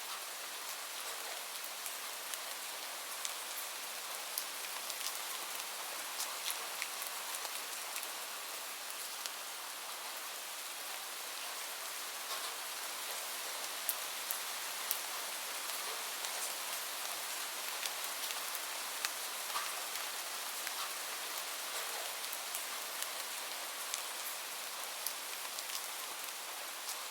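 Steady rain hiss with scattered sharp pops, the crackling of a wood fire.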